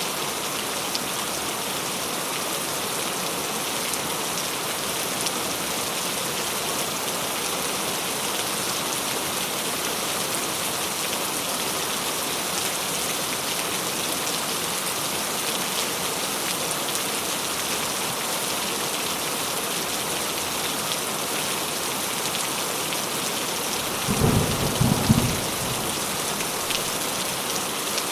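Steady rain falling, an even dense hiss of drops. About 24 seconds in, a short low rumble of thunder.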